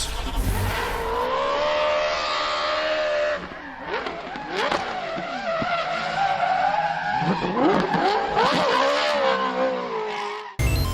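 Car engine revving hard with tyres spinning and squealing in a burnout. The engine's pitch rises and falls several times, and the sound cuts off suddenly near the end.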